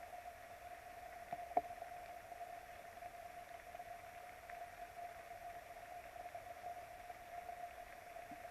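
Steady hiss with a faint constant tone from a remote nest-camera microphone, broken by two sharp ticks about a second and a half in and a softer one near the end.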